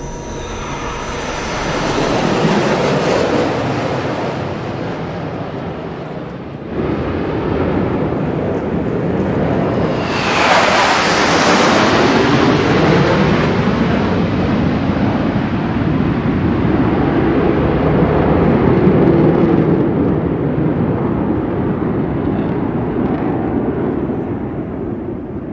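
A formation of low-flying F-16 Fighting Falcon and T-50i Golden Eagle jet fighters passing overhead. The jet noise builds, is loudest about ten seconds in with a falling pitch as the aircraft go over, then slowly fades.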